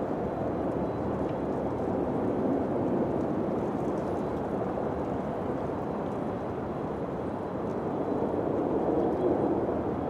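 Wind blowing steadily, a low rushing noise that swells a little a couple of seconds in and again near the end.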